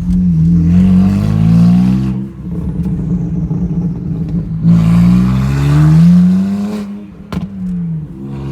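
Tuned car engine with a true dual exhaust, pulling hard under acceleration. The revs climb for about two seconds and drop at a gear change, climb again from about five seconds in, then fall away as it lifts off. There is a sharp click shortly before the end.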